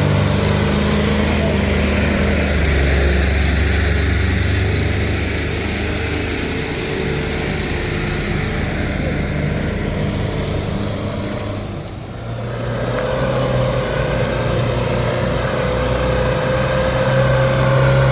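Heavy vehicle engines running on a steep road climb. The loudness dips briefly about two-thirds of the way through, before another engine's steady drone with a higher whine comes in.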